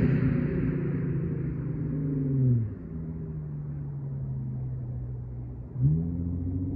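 Holden VY Commodore's 3.8-litre Ecotec V6 running through Redback headers, a high-flow cat, a middle muffler and a straight tail pipe. The exhaust note holds steady, drops sharply about two and a half seconds in as the throttle comes off, then rises again with a brief louder burst near the end.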